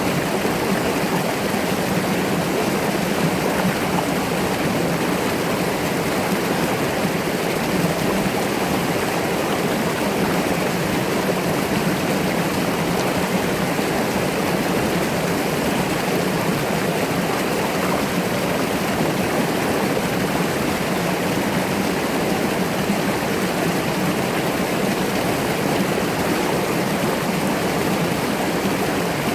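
Mountain brook flowing: a steady, unbroken rush of running water.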